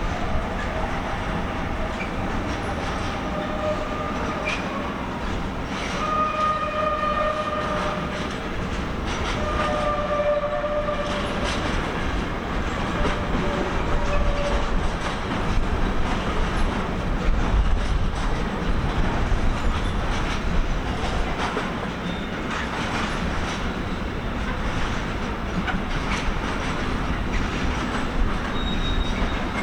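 Freight train rolling over a run of points, its wheels clattering over the switches and rail joints, with several short, high wheel squeals in the first half.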